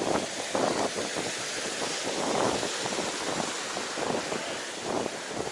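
Riding a road bike through water running across the road: a steady hiss of wheels and water under wind on the microphone, with irregular louder rushes every second or so.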